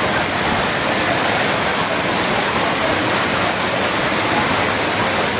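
Heavy rain pouring down: a loud, steady rush of water with no breaks.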